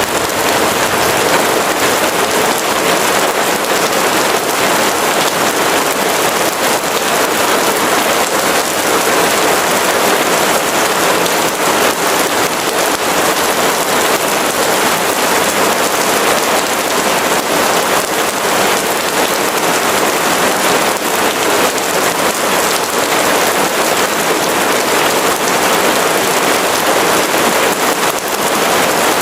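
Steady rain falling, a continuous dense patter.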